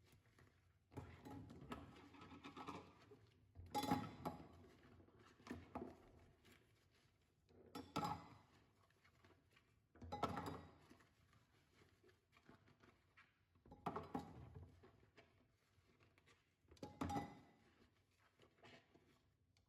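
Household items being handled and set down, with soft knocks and light clatter in about six separate bursts a few seconds apart.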